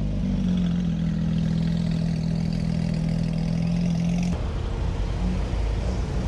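A car engine idling, a steady low hum, which changes abruptly about four seconds in.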